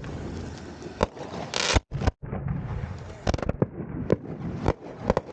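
Consumer fireworks going off: a continuous crackle and hiss with several sharp bangs spread through it, and a brief, louder crackling burst a little under two seconds in.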